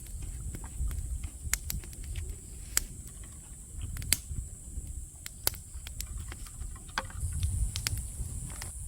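Outdoor summer ambience: a steady high insect chirring, a low rumble and scattered light clicks.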